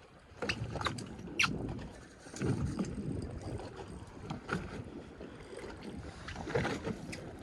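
Handling noise on a fishing boat's deck: several sharp knocks and clatter over a steady low rumble of wind and water.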